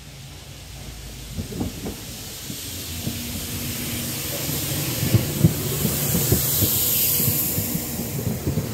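Transport for Wales Class 197 diesel multiple unit approaching and running in alongside the platform, growing steadily louder. Its underfloor diesel engine hums under a hiss, and the wheels clack over rail joints from about a second and a half in.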